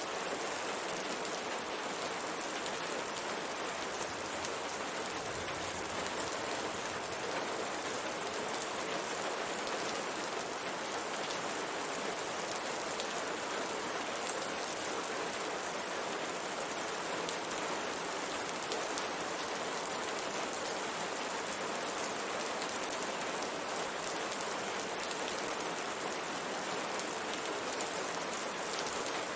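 Steady rain pattering on a window pane, an even hiss of many small drops.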